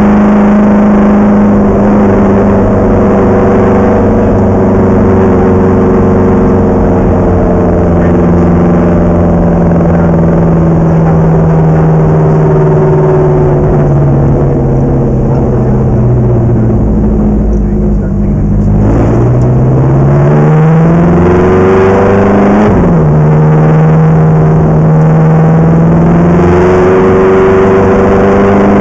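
Ferrari race car engine heard loud from on board, its note sagging slowly under steady throttle. About two-thirds through it eases off briefly, then revs climb and fall abruptly as at a gear change, and revs rise again near the end.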